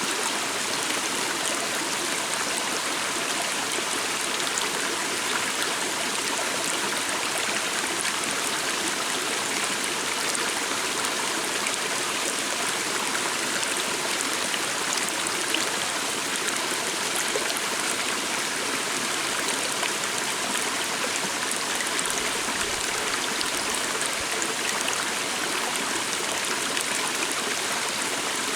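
Calm stream of water running steadily.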